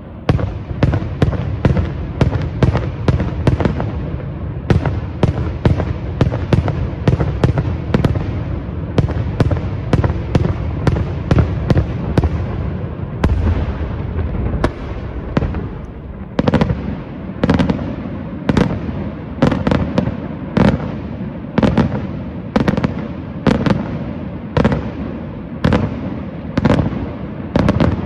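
Daytime fireworks display: a rapid string of sharp bangs, several a second. About halfway through it settles into a steadier beat of heavier booms about one a second, each followed by a low rumble.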